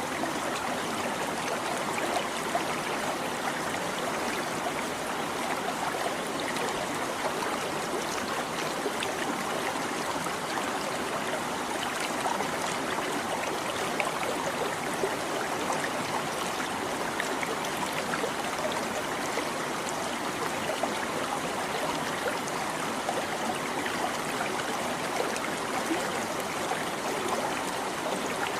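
A small stream babbling and trickling over rocks, a steady, even flow of running water with little splashes throughout.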